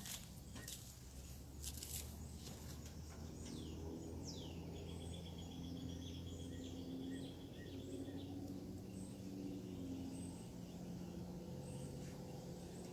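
Wild birds calling: one gives a downward-slurred note and then a fast, even trill lasting about three and a half seconds, with scattered chirps from others, over a steady low hum.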